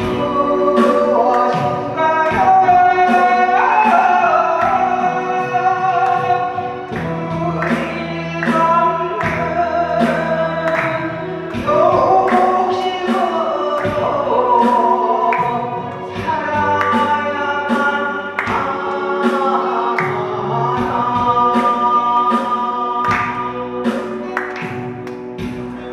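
A Korean trot song sung solo over a backing track, with the sung melody carried on sustained chords and a steady beat.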